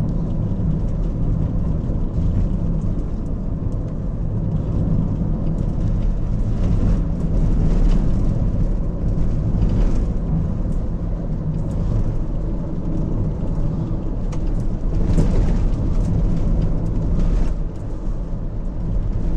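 Car driving over a broken, potholed road, heard from inside the cabin: steady engine and tyre rumble, with a few sharp knocks and rattles as the car hits bumps.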